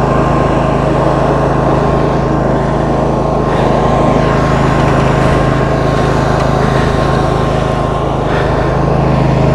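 Roper lawn tractor's 22 hp Briggs & Stratton V-twin engine running steadily at an even speed.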